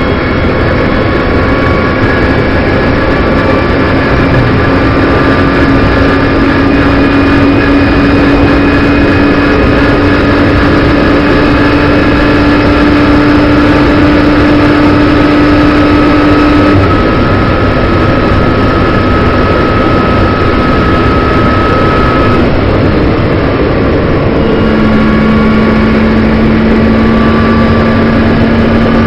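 In-car sound of a BMW M240i Racing Cup's turbocharged straight-six under power: the engine note climbs slowly and steadily for about fifteen seconds, then drops, and settles on a lower steady note over the last few seconds.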